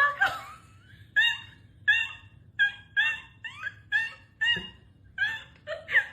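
A series of short, high-pitched animal calls, about ten of them, coming roughly one or two a second, some bending up or down in pitch.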